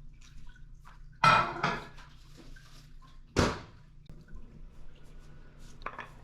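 Household containers being handled: a clatter about a second in, then a louder knock a couple of seconds later as something is set down, with a faint tick near the end.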